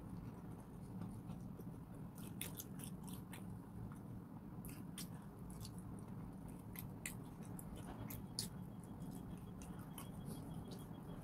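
Close-up chewing with wet mouth clicks and lip smacks, irregular and scattered, over a steady low hum.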